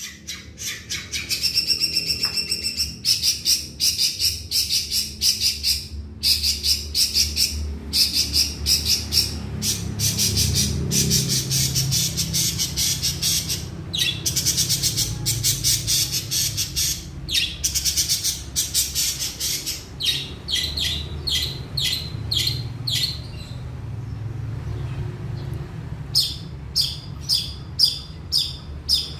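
Long-tailed shrike singing a fast, chattering song of rapid repeated high notes, with a short pause near the end, over a low steady rumble.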